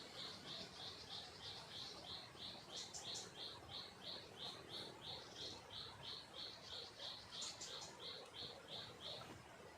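Faint, evenly repeated high chirps, about three a second, that stop near the end, with a couple of brief higher notes over them twice.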